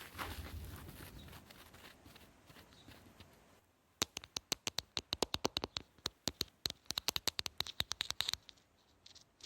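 A sponge being worked by hand: a fading rustle at first, then a quick run of sharp, crisp clicks, about ten a second, that stops suddenly after about four seconds.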